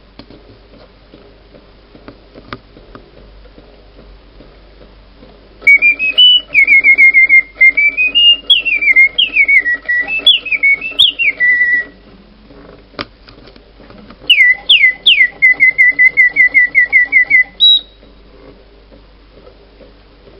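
Clockwork singing-bird automaton whistling birdsong in two bursts: about six seconds of warbling notes that swoop up and down, then after a pause and a single click, a shorter run of quick down-swooping chirps and rapid repeated notes.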